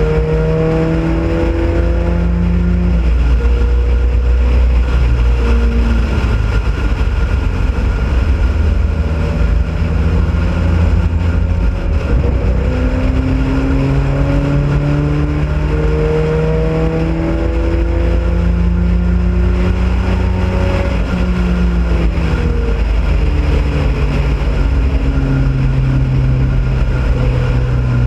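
Onboard sound of a Ford Pinto racing car's engine at full throttle around a track, its pitch climbing and dropping back every few seconds as the driver shifts gears and lifts for corners, over a steady heavy rumble of wind on the microphone.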